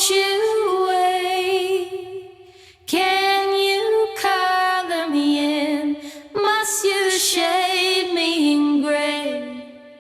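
A woman singing three held, wavering phrases with little or no accompaniment; the last one fades out near the end.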